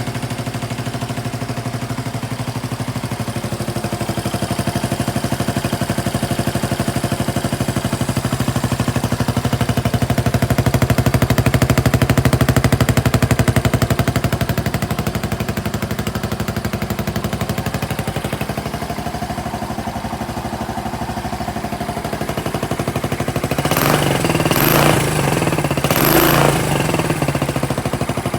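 Suzuki VanVan 200's single-cylinder four-stroke engine breathing through an aftermarket exhaust, idling steadily with its idle rising a little and settling again, then blipped on the throttle a few times near the end.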